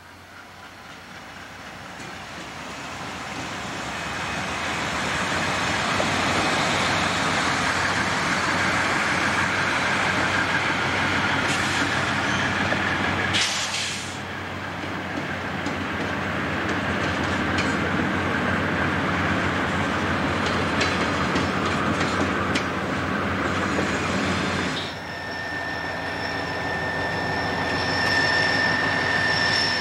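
Norfolk Southern diesel-electric freight locomotives and coal hoppers rolling past close by. The engine and wheel noise grows louder as the train approaches, then holds steady. In the last few seconds a steady high-pitched wheel squeal rings out over the rumble.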